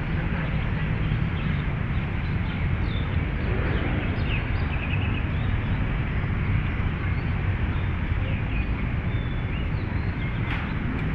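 Steady low rumble of city traffic, with small birds chirping now and then over it.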